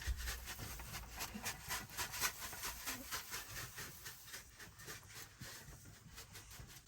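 A dense run of light, irregular clicks and rustles over a low steady hum.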